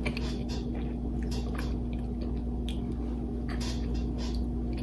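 A person chewing a mouthful of baked fish with lips closed: a string of soft, wet clicks and smacks, over a steady low hum.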